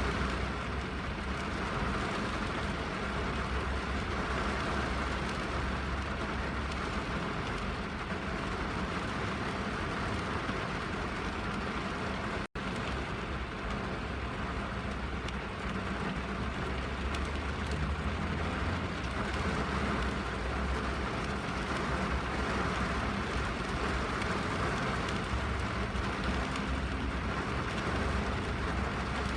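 Steady rain on a car's roof and windows heard from inside the cabin: an even wash of drops over a deep, muffled rumble. The sound cuts out for an instant about twelve seconds in.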